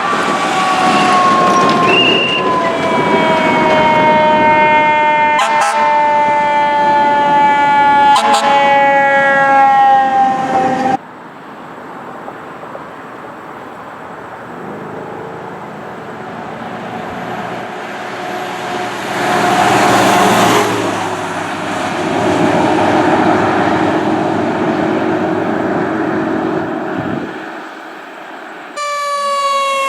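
Fire truck siren slowly winding down in pitch. After a sudden cut about eleven seconds in, it gives way to the lower, quieter running of a passing truck. Near the end another siren comes in, also falling in pitch.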